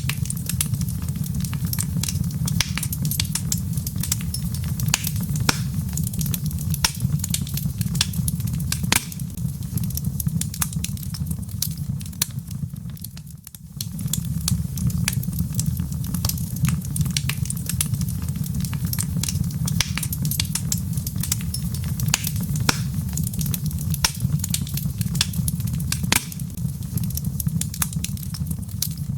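Log fire crackling: many sharp pops and snaps over a steady low rumble, with a brief dip in level about halfway through.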